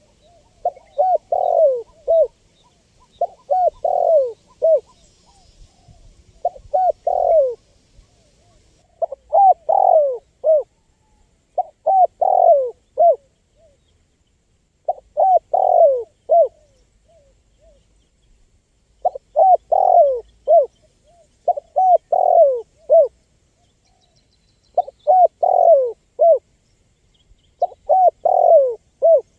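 Spotted dove (tekukur) singing its cooing song over and over: about ten phrases, each a quick run of three or four falling coos, a second or two apart.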